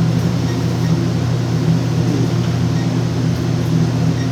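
Steady low mechanical hum from running machinery, constant in level with no change.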